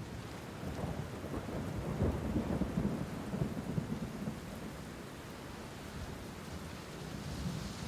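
Rain-and-thunder ambience track: steady rain with a low rumble of thunder that swells about two seconds in and eases off after about four seconds.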